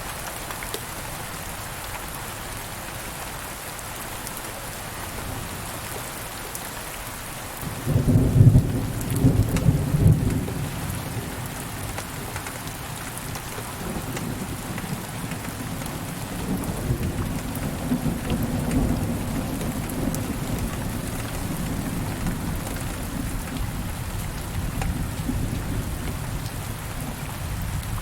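Steady rain falling, with a loud clap of thunder breaking in about eight seconds in and rolling on as a long low rumble to near the end.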